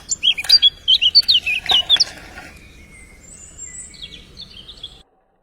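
Birds chirping: a quick run of short, high chirps for about two seconds, then fewer, fainter calls. The sound cuts off just before the end.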